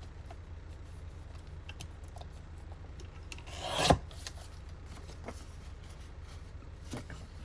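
Paper and card being handled at a craft desk: light ticks, and one rasping scrape that builds for about half a second and stops abruptly, about four seconds in.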